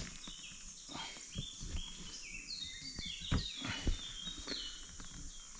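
Songbirds singing, with many short high chirps and falling stepped phrases repeating, over a few dull low knocks from handling nearby.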